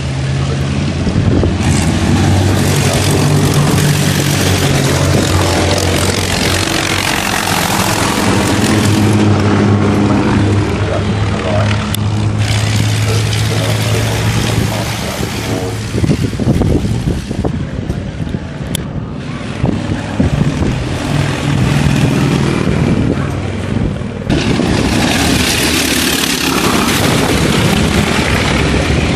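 Vintage sports car engines running and revving, their pitch rising and falling, in a series of short clips with abrupt changes between cars.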